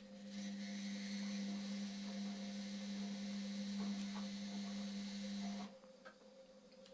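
Indesit washing machine running with a steady hum and a rush of water, cutting off suddenly after about five and a half seconds.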